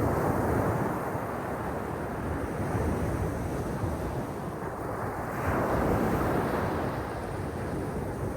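Black Sea waves breaking and washing on the shore, surging near the start and again about five and a half seconds in, with wind rumbling on the microphone.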